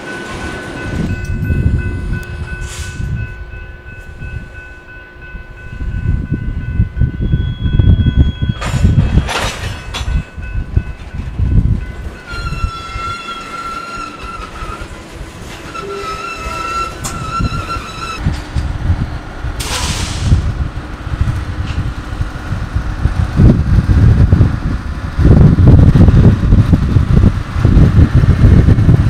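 Freight railcars rolling slowly over the track: surging low rumble of wheels on rail with several sharp metallic clanks. Around the middle a high-pitched tone sounds twice, each for about two and a half seconds, and near the end the rumble grows heaviest as a diesel genset switcher locomotive rolls past.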